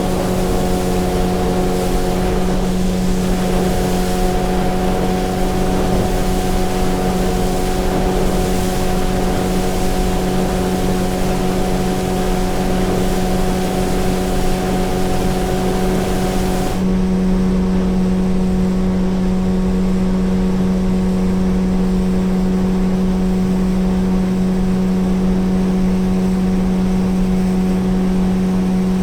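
Motorboat engine running at a steady speed, a constant low hum with water and wind hiss over it. About two-thirds of the way through, the hiss cuts off suddenly, leaving the engine hum clearer and steady.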